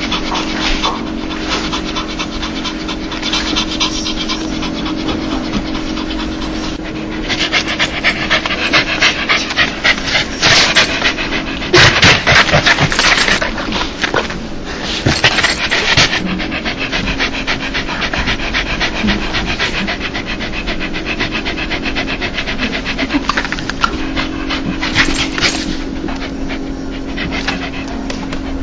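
A dog panting in quick, rhythmic huffs, the excited panting known as a dog's laugh. The panting grows louder and heavier through the middle, then settles back to a steadier pace.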